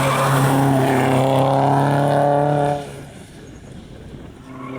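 Rally car engine running hard at high revs, its pitch rising slightly, then dropping away abruptly about three seconds in. Another rally car's engine starts to build near the end.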